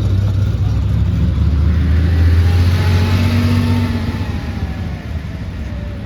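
A car driving past, its engine and road noise loudest about two to three seconds in, then fading as it moves away with a slowly falling pitch.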